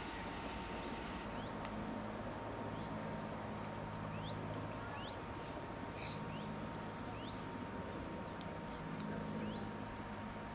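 Small birds giving short rising chirps, roughly one every half second to a second. Under them run a steady low hum and a faint thin steady tone.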